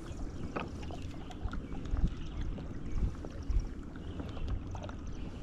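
Kayak underway on a river: a steady low rumble of water and wind against the hull and microphone, with scattered small knocks and clicks.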